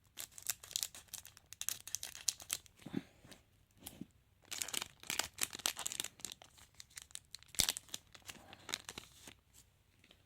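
A trading-card packet's wrapper being torn open and crinkled, a dense run of crackling rustles with a sharp snap about three quarters of the way through. The rustling stops shortly before the end.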